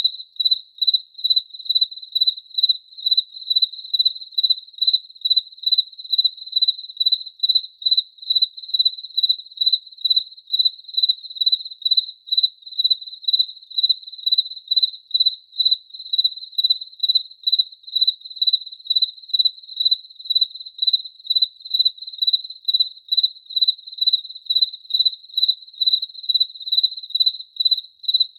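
A cricket chirping at one steady high pitch, in an even rhythm of about two chirps a second, with nothing else heard.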